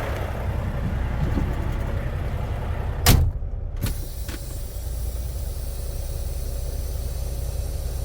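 Semi truck's diesel engine idling with a steady low rumble. About three seconds in there is one sharp thump, followed by two fainter clicks.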